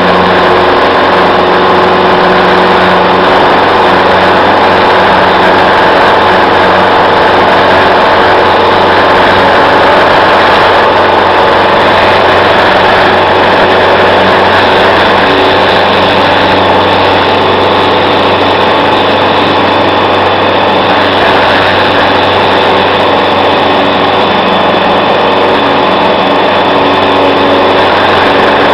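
Piper PA-28-151 Warrior's four-cylinder Lycoming piston engine and propeller running at a steady power setting, loud and unchanging in pitch.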